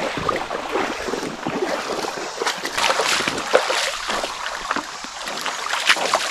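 Someone wading through a flowing creek: water splashing and sloshing in irregular bursts over the steady rush of the current.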